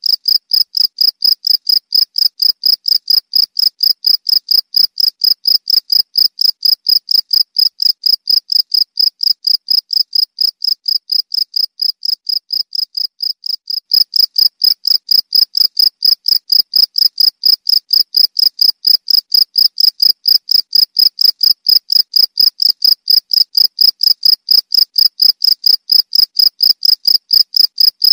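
Cricket (jangkrik) chirping in a rapid, even train of short high-pitched pulses. It grows a little softer in the middle, then jumps back louder about halfway through.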